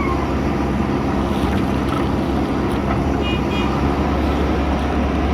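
JCB backhoe loader's diesel engine running steadily. A brief high double beep sounds about three seconds in.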